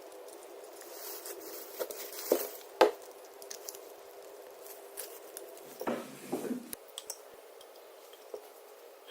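Small hard objects being handled on a workbench: a couple of sharp clicks or taps, a short rubbing, scraping noise about six seconds in, and a few light ticks, over a steady low hum.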